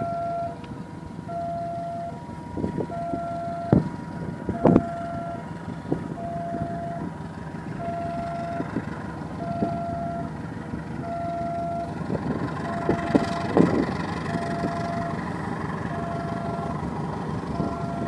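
A passenger train hauled by a diesel locomotive running past, its rumble growing louder from about twelve seconds in. Throughout, a two-tone electronic beep alternates high and low about every three-quarters of a second, with a couple of sharp knocks near the start.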